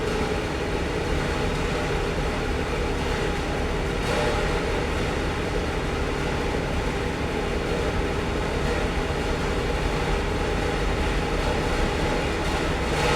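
Hitachi EX200-5 excavator's diesel engine running steadily.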